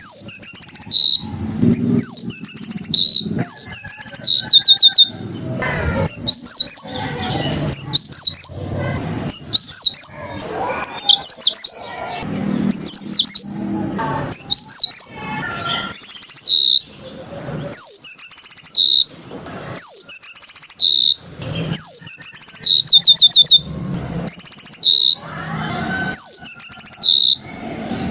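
Yellow-fronted canary (Mozambique canary) singing the same short, high, clear phrase over and over, roughly every two seconds: a quick downward slur, a fast run of trilled notes, then a lower closing note. A low background rumble sits under the song.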